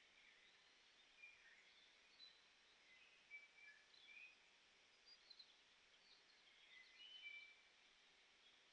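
Faint distant birdsong: scattered short chirps and whistles over a quiet background hiss.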